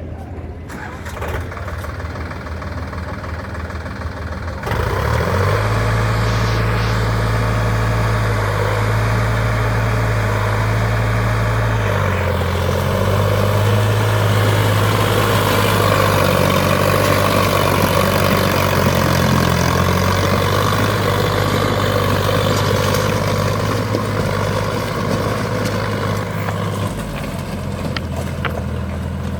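Sonalika Sikandar DI 50 RX tractor's diesel engine working hard under a full load. It gets suddenly louder about five seconds in, its note shifts about twelve seconds in, and it eases off near the end.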